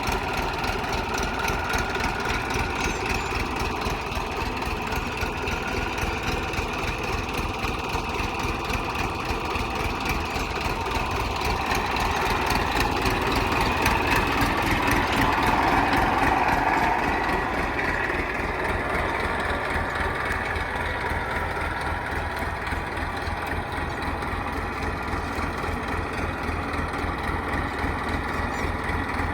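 Heavy diesel engine running steadily, growing louder for a few seconds about halfway through before settling back.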